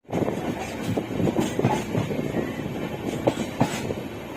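Train moving on the track, with a continuous run of irregular knocks and clatter from the wheels and cars.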